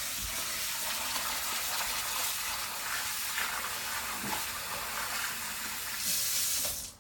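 Hot water running steadily into a container to rinse rice. The flow cuts off suddenly near the end.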